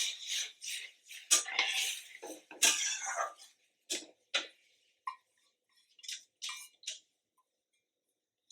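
Metal kitchen utensils clattering and scraping against pots and pans in quick succession, thinning to a few separate clinks after about three seconds and stopping around seven seconds in.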